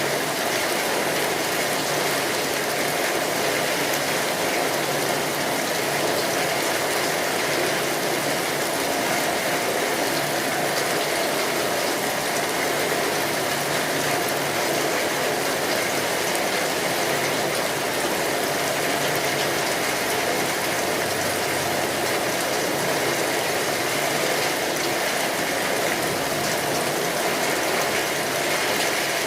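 Steady rain drumming on a tin roof, a dense even patter of drops, with a wood fire crackling under it.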